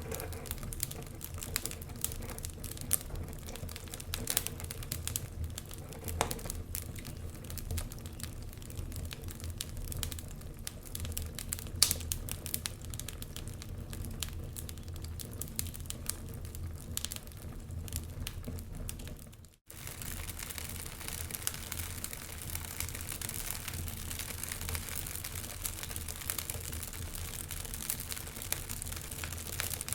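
Wood fire crackling, with frequent sharp snaps and pops over a low steady rumble. About two-thirds of the way through the sound cuts out for a moment, then comes back with a stronger hiss.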